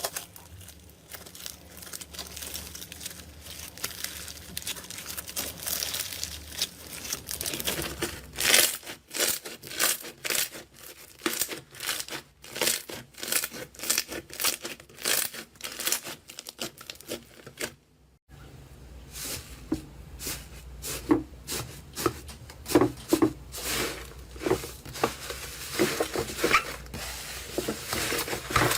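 Slime being squeezed and stretched by hand, making dense crackles and small pops. A sudden cut about 18 seconds in starts a new run of squishing pops.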